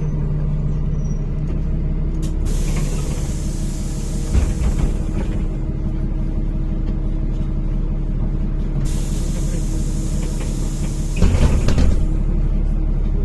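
NefAZ-5299 city bus idling with a steady low engine hum, with a long hiss of compressed air from its pneumatics for several seconds, and a few clunks around 4 seconds in and again near the end.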